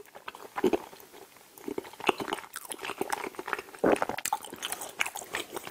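A person chewing a mouthful of smoked chicken in creamy rose sauce with melted cheese, with many quick, irregular mouth clicks and smacks.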